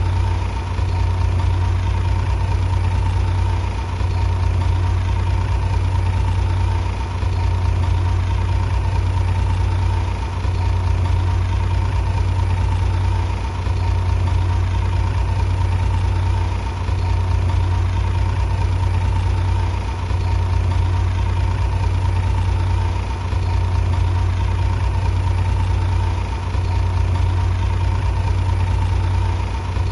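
Heavy diesel engine of a bulldozer running steadily: a deep, loud hum with a thin steady whine above it, dipping briefly about every three seconds.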